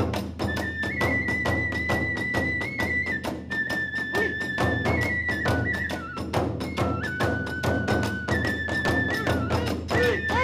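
Kagura hayashi accompaniment: a bamboo flute holding and stepping between high notes over a fast, even beat of drums and hand cymbals, about four to five strokes a second.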